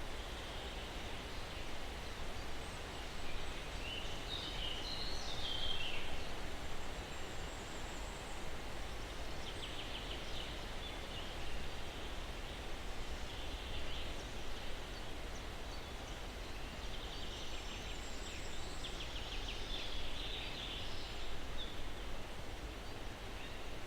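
Steady breeze rustling through pine trees, with small birds chirping at a distance. The calls come several times, with a longer run of quick trilled notes past the middle.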